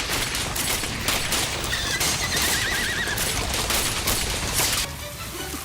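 A horse whinnies with a wavering cry about two seconds in, over dense, rapid gunfire. The firing cuts off near the end.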